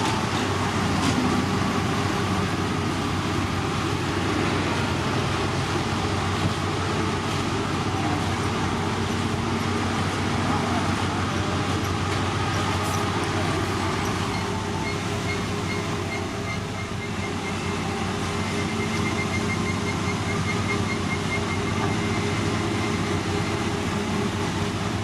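Heavy diesel road-construction machinery running steadily, a continuous mechanical drone with a low hum. From a little past the middle, a faint, rapid series of high pips runs along with it.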